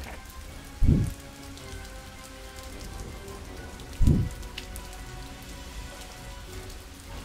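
Steady rain pattering, a rain sound effect, with two short low booms about three seconds apart, one about a second in and one about four seconds in.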